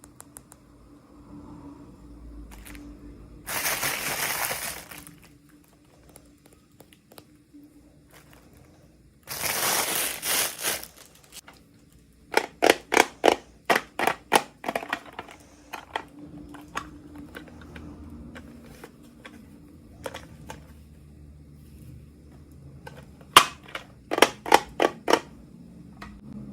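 Plastic packaging being handled and opened: two bursts of crinkling, then two runs of quick sharp clicks, about four a second.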